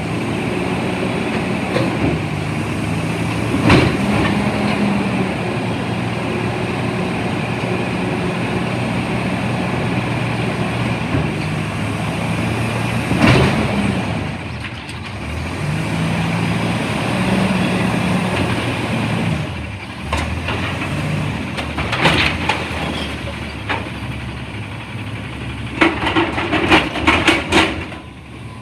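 CNG front-loader garbage truck running, its engine rising and falling in pitch as it works, with loud metal bangs: one about four seconds in, another midway, and a quick run of clanks near the end.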